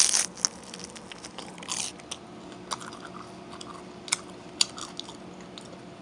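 A person biting and chewing a bagel close to the microphone: crunchy bites and chewing clicks at irregular intervals, the loudest bite right at the start and another just before two seconds in.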